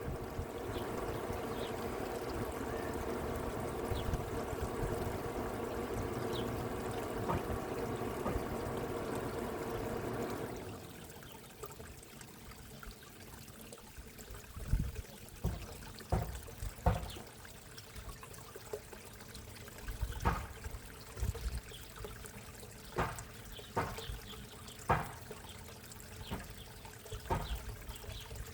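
Water trickling and splashing into a backyard koi pond, steady at first, then dropping abruptly to a quieter trickle about ten seconds in. Scattered sharp knocks come through irregularly in the second half.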